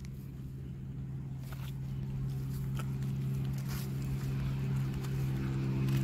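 A steady low hum with a few even tones, like an engine running off in the distance, slowly growing louder, with a few faint clicks.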